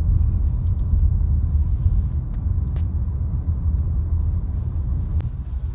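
Steady low rumble of a car being driven, with a few faint ticks.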